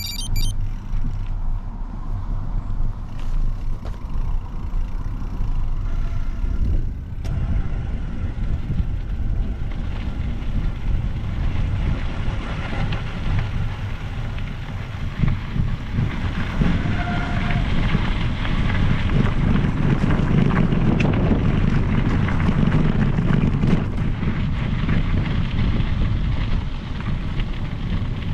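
Wind rushing over the microphone with the rolling noise of a bicycle riding along a trail, a steady rumbling hiss that grows louder about halfway through.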